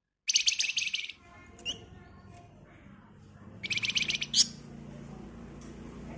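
A Flamboyan (wergan) songbird gives two rapid, dense rattling trills, the 'ngebren' song, each under a second long and about three seconds apart, with short single chirps in between. A low steady hum runs underneath in the second half.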